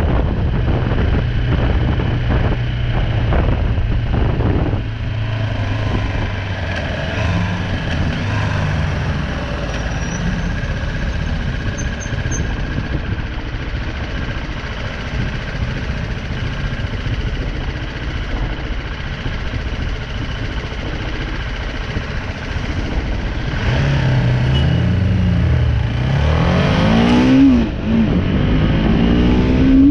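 BMW G310R single-cylinder engine running under way, with wind rushing over the microphone. Near the end the revs climb, dip briefly as a gear is changed, and climb again.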